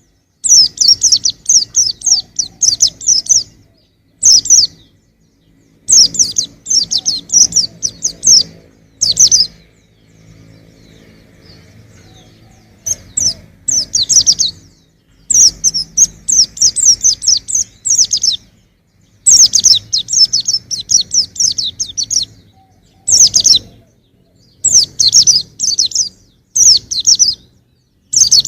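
Young white-eye singing: bursts of fast, high twittering phrases a second or two long, separated by short pauses, with a longer pause about ten seconds in.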